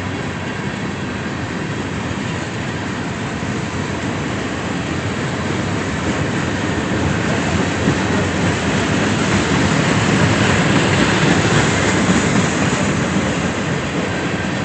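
A train's cars rolling past on the rails, a steady rumble with wheel clatter that grows louder about halfway through, peaks, then eases slightly.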